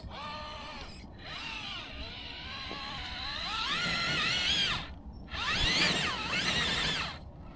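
Electric motor and gear drivetrain of an RC rock crawler, geared with a 12-tooth pinion, whining up and down in pitch as the throttle is worked on a climb. It cuts out briefly twice, about a second in and about five seconds in.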